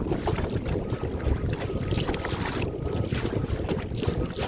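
Wind buffeting the microphone, a dense low rumble, with a faint thin whine coming and going.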